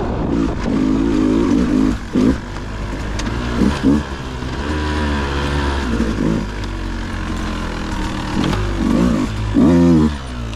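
Dirt bike engine revving in short, repeated blips of the throttle, its pitch rising and falling each time, louder for a moment near the end.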